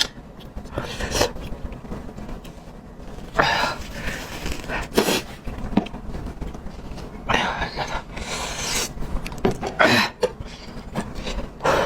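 Close-miked eating sounds: a person biting and chewing raw garlic, with irregular loud breaths and crunchy bursts every second or two, the breathing sharpened by the garlic's heat.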